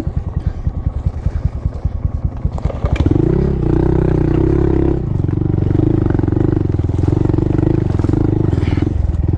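Honda Monkey's single-cylinder four-stroke engine chugging at low revs with an even pulse, then revving up about three seconds in and pulling steadily, with a brief dip about five seconds in.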